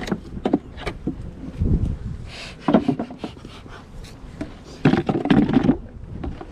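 Wooden beehive equipment being handled: a series of knocks and clicks, with two longer stretches of scraping and rubbing, as hive boxes, lids and bottom boards are moved and worked.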